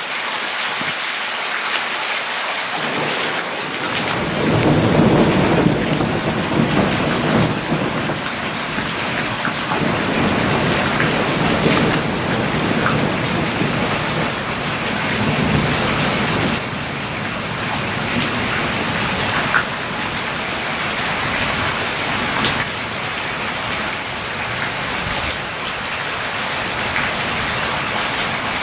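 Steady heavy rain with a long roll of thunder that builds about three to four seconds in and rumbles on in swells for over ten seconds before fading back into the rain.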